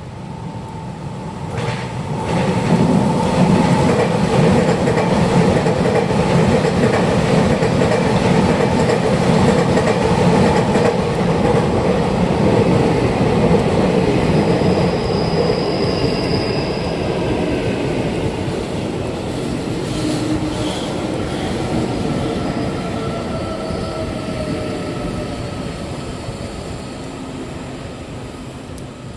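Two electric multiple-unit trains running past on parallel tracks: a Taiwan Railways EMU3000 intercity set on a test run and an EMU800 commuter train. Wheels on rails, with thin whining tones that slowly shift in pitch. It builds up about two seconds in and dies away slowly over the last half.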